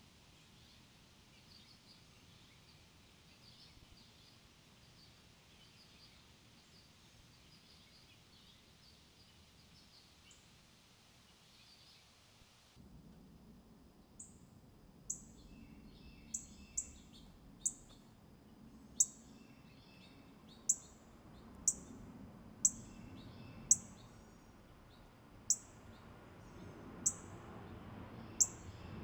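Faint, distant bird chirps at first. Then, about halfway through, a songbird close by starts giving sharp, high chip calls, each a quick downward note, repeated irregularly about once a second.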